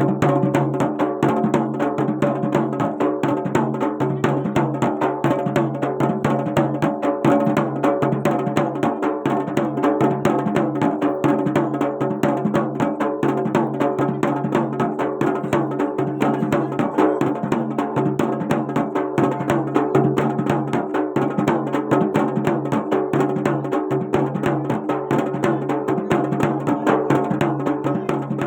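Garhwali jagar folk music: fast, dense drumming beating continuously over steady held instrumental tones.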